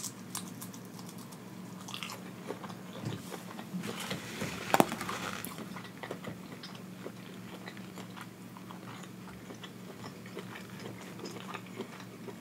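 Close-miked chewing and biting of hibachi food, with many small wet mouth clicks, and one sharper click about five seconds in.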